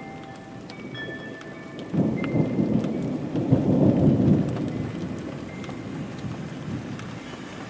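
Steady rain with a rumble of thunder that breaks in suddenly about two seconds in, is loudest for a couple of seconds, then dies away.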